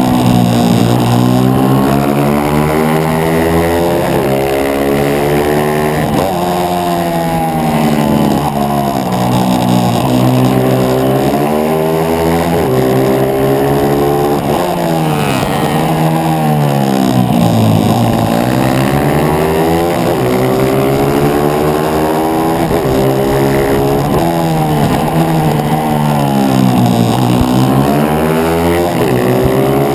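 On-board sound of a 140cc pit bike's single-cylinder four-stroke engine racing, revving up hard and dropping back again and again as the rider accelerates out of corners and brakes into them.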